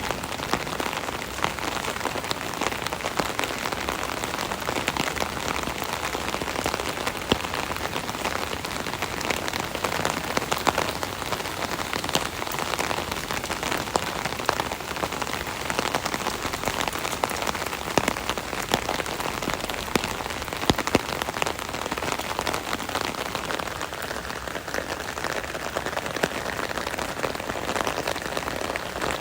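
Steady rain pattering on an umbrella canopy from underneath, a dense even patter with many sharp individual drop hits.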